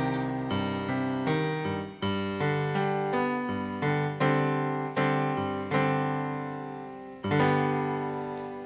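Piano-style keyboard playing a slow sequence of struck chords, each note decaying after it is hit, with a final chord about seven seconds in that rings and fades out.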